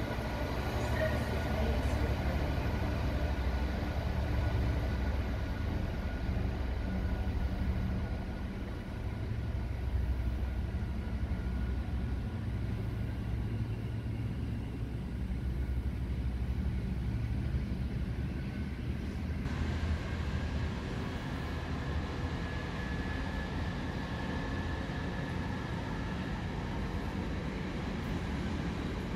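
A train at a station, running with a steady low rumble and faint steady whining tones above it. The sound changes abruptly about twenty seconds in.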